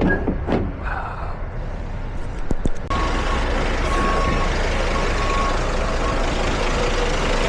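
Truck engine running with a few short clicks. About three seconds in, the sound jumps abruptly to a louder, steady rumble, and a reversing alarm starts beeping repeatedly.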